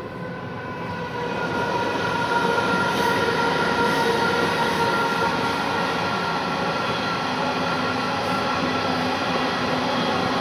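Diesel-hauled coal train passing, its wheels running on the rails, growing louder about two seconds in, with a faint steady ringing note over the rumble.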